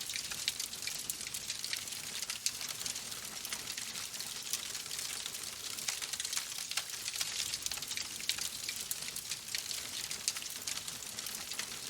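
Wood fire crackling in a fireplace: a steady hiss studded with many quick, irregular pops and snaps.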